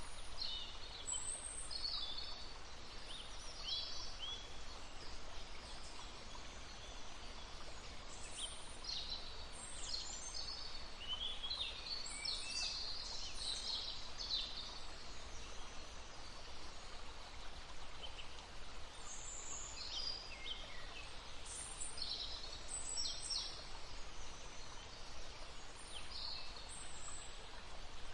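Songbirds singing in short chirps and trills over the steady hiss of a babbling brook.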